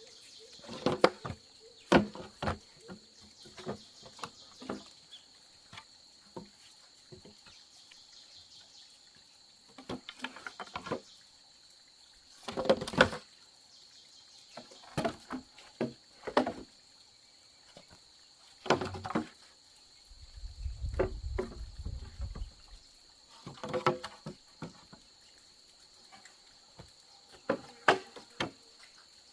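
Irregular knocks and clacks of bamboo being handled and worked, a dozen or so spread through, over a steady high-pitched insect buzz. A low rumble comes in about two-thirds of the way through.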